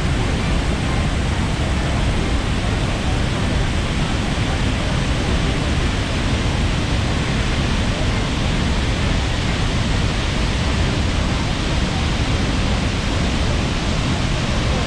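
Steady roar of a waterfall, an even rushing noise with no change or break.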